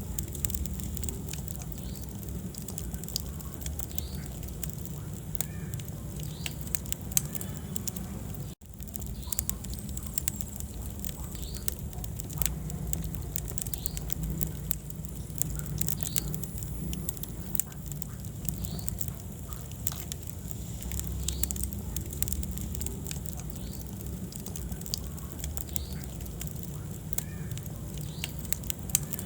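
Wood fire burning in a fireplace: a steady low rumble of flames with frequent sharp crackles and pops from the burning logs. The sound cuts out for an instant about a third of the way in.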